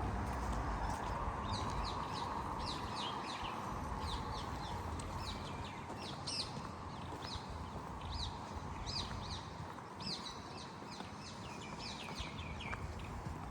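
Small birds chirping over and over, many short falling chirps overlapping, over a steady hum of distant city traffic.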